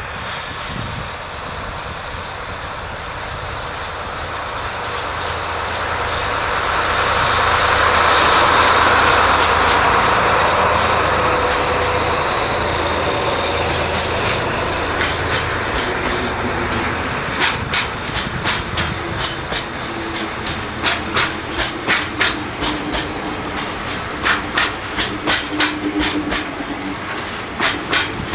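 A JNR DD51 diesel-hydraulic locomotive passes with a steady engine drone that swells to its loudest about 8 to 10 seconds in. Freight wagons follow, and from about halfway through their wheels give a rhythmic clickety-clack over the rail joints.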